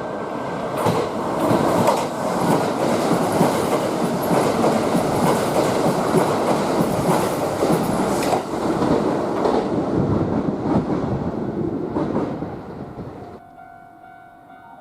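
Kintetsu limited express electric train passing through a station at speed, its wheels clattering over the rail joints. The noise dies away about thirteen seconds in.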